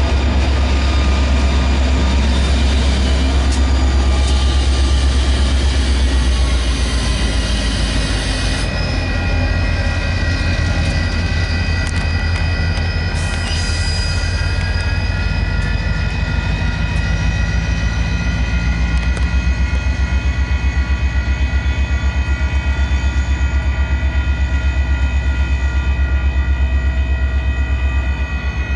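Union Pacific maintenance-of-way train rolling through a grade crossing: a heavy low rumble of locomotive and wheels on rail, with steady ringing tones of the crossing's warning bell. A fast regular pulsing joins in over the second half.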